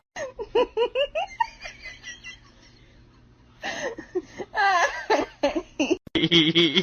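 A person laughing in two bouts of quick, short bursts with a pause between. Near the end the sound cuts abruptly to a different, steady pitched sound.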